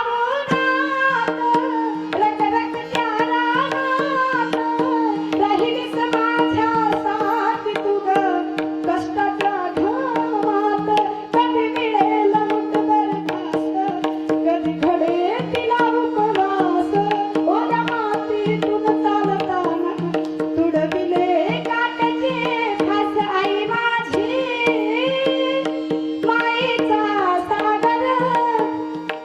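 Kirtan devotional music: tabla strokes and a steady held drone note under a gliding melody line.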